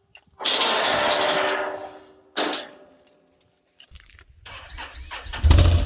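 Can-Am side-by-side utility vehicle's engine being started. Two noisy bursts come first; then, about four seconds in, the engine catches and builds into a loud, steady low running rumble near the end.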